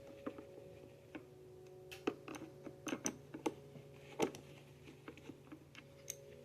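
Irregular light clicks and taps of a screwdriver and plastic housing parts as screws are taken out of a Bissell PowerForce vacuum cleaner, over a faint steady hum.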